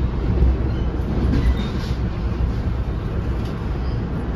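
Steady low rumble of an NJ Transit Comet II/IV passenger coach rolling along the track, heard from inside the car: wheels on rails and the car body running.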